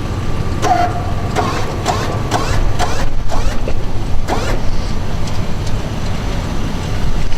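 A 1999 Dodge Ram 2500's Magnum V8 idling, a steady low rumble, with a few short higher-pitched sounds over the first few seconds.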